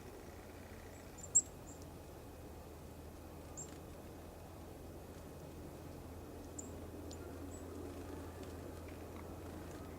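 Small wild songbirds giving short, high chirps every few seconds, the loudest about a second in, over a steady low hum.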